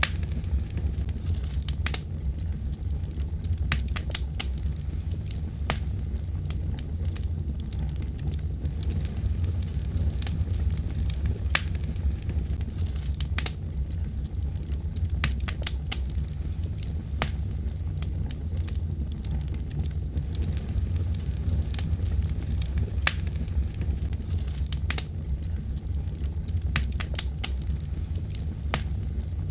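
A fire crackling: sharp irregular pops and snaps, a few every couple of seconds, over a steady low rumble of the flames.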